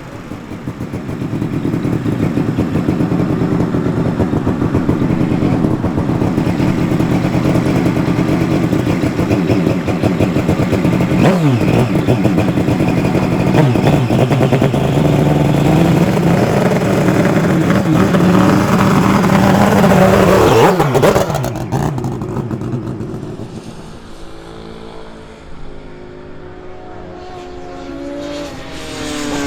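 Twin-rotor rotary engine of a Crighton racing motorcycle running hard at high revs on track, its pitch rising and falling as it passes. The sound dies down about 22 seconds in, and a quieter engine rises near the end.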